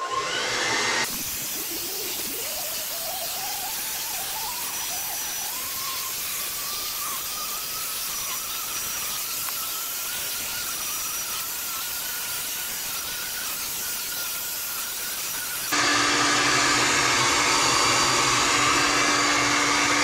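Conair Infinity Pro hair dryer running: a steady rush of blown air with a whine that rises in pitch over the first several seconds. About 16 seconds in it gets louder, with a low hum added.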